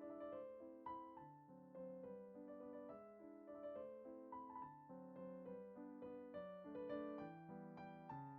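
Soft background piano music: a gentle melody over chords, several notes sounding at once and changing every quarter to half second.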